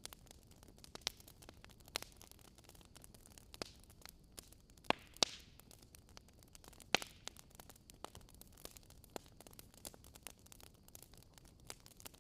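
Crackling wood fire: irregular sharp pops and snaps over a soft steady hiss, with the loudest pops about five seconds in and again around seven seconds.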